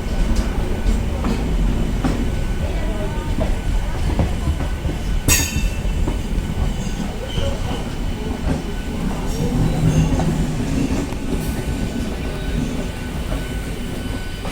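Passenger train rolling on the rails: a steady low rumble with wheel clatter, a faint wheel squeal, and a sharp clank about five seconds in.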